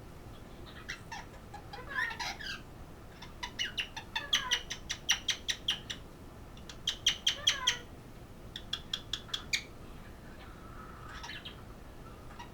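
Pet parrot calling: a few short sliding chirps, then three runs of rapid, sharp repeated calls at about five a second.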